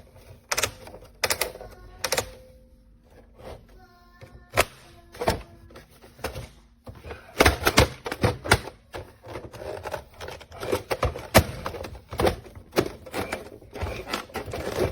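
Plastic toy school bus being handled: a string of sharp clicks and clacks from its buttons and moving plastic parts, with a brief electronic tone from the toy about four seconds in.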